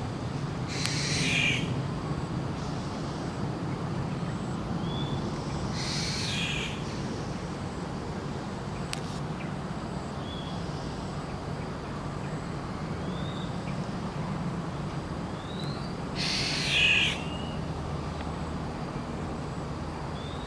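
Wild birds calling over steady low background noise: three loud, harsh calls about a second long, spaced several seconds apart, with short rising chirps from another bird in between.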